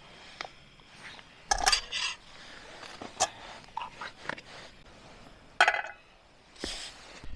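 Camping cookware and utensils being handled, clinking and clattering in a few separate bursts while coffee is being made.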